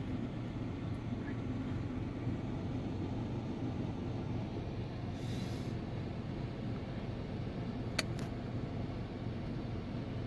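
Steady low rumble like a running vehicle, with a brief hiss about five seconds in and a sharp click about eight seconds in.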